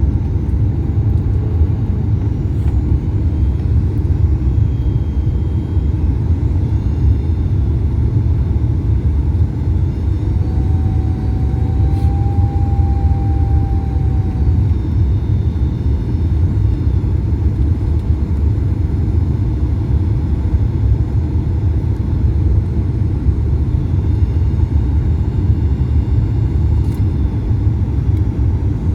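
Steady low rumble of a Boeing 737 MAX-8 heard from inside the cabin in flight: engine and airflow noise. A faint steady tone sounds for about four seconds near the middle.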